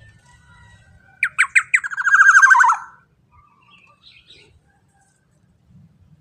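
Black-naped oriole calling once: about a second in, four sharp down-slurred notes run straight into a loud, harsh, buzzy phrase that falls in pitch and ends about a second later.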